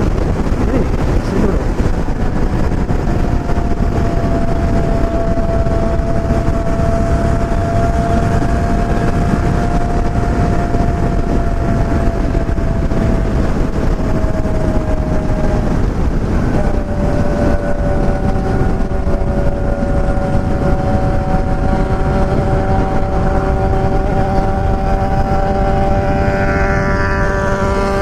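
Motorcycle riding at a steady speed: heavy wind rush over the microphone with the Yamaha MT-07's parallel-twin engine note holding steady underneath. The engine note shifts to a new pitch about halfway through.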